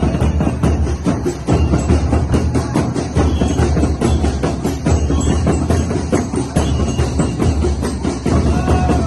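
Loud percussion-driven Sinulog festival music, with drums pounding a fast, steady beat.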